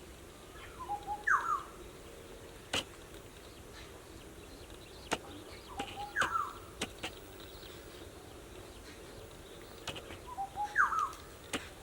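A bird calling three times, about every five seconds: each call is a couple of short low notes followed by a quick falling whistle. A few sharp clicks come between the calls.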